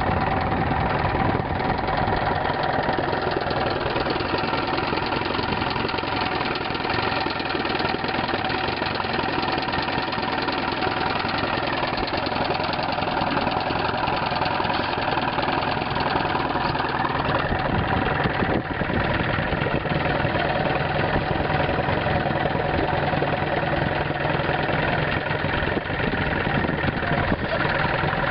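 35 hp Gale two-stroke outboard motor idling steadily.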